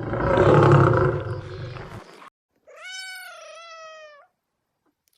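A big cat's roar, the loudest sound, runs on for the first two seconds and ends abruptly. After a short gap, a domestic cat gives one drawn-out meow of about a second and a half that rises and then falls in pitch.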